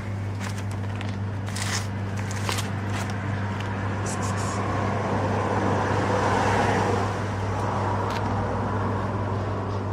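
A road vehicle passing by, its noise swelling to a peak about six seconds in and then easing off, over a steady low hum, with a few light clicks in the first seconds.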